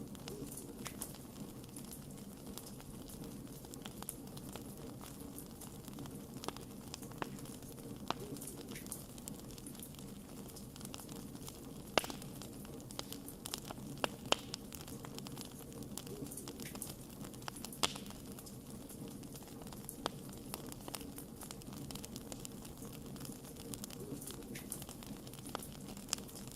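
Wood fire crackling: a steady low rush of the burning campfire with frequent small snaps and a few louder pops scattered through.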